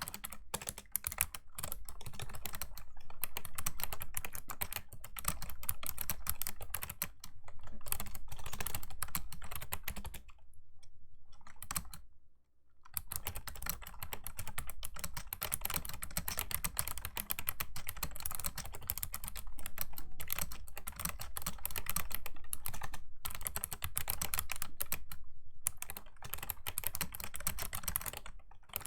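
Fast typing on a Razer Ornata Chroma V2 mecha-membrane keyboard: a dense run of clicky keystrokes, broken by a pause of about two seconds roughly a third of the way in.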